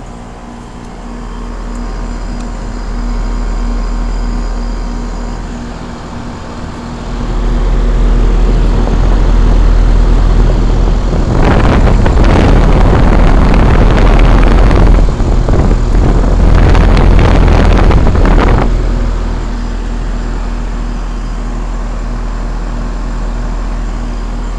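Outdoor unit of a 5-ton Trane XE1000 Weathertron heat pump running in heat mode: steady compressor hum with the condenser fan. A loud rushing rumble comes in about seven seconds in, heaviest for about seven seconds in the middle, then drops back to the steady hum.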